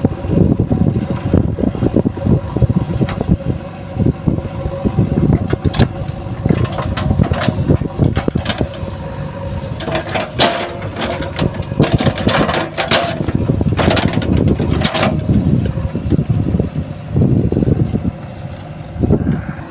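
JCB 3DX backhoe loader's diesel engine running under working load, with a steady whine over the engine. A run of sharp clanks and scrapes comes about halfway through.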